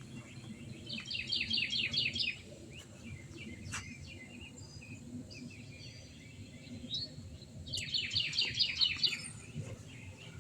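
A songbird singing twice, each time a quick run of about ten repeated notes lasting just over a second, over a steady low background rumble.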